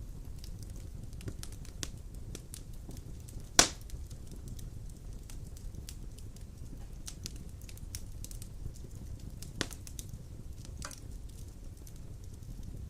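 Large logs burning in a fireplace: a steady low rumble of flames with scattered small crackles, a loud sharp pop about three and a half seconds in and a smaller one later.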